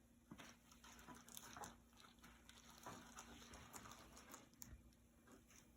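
Near silence with faint, soft pats and rustles of a raw chicken breast being pressed and turned in a dish of flour, over a faint steady hum.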